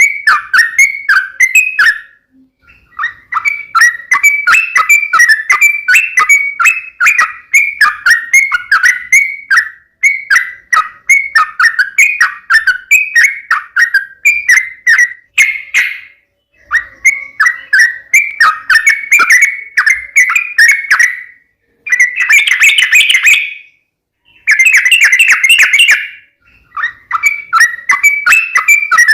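Yellow-vented bulbul (trucukan) calling in a loud, rapid chatter of short notes, in bursts of several seconds with brief breaks. These are aggressive 'fighting' calls of a bird in full song.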